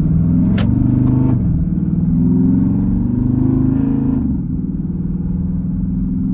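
Straight-piped Hemi V8 of a 2014 Jeep Grand Cherokee accelerating with a deep exhaust note. The pitch climbs, falls back about a second and a half in, climbs again, then settles to a steadier, lower drone about four seconds in.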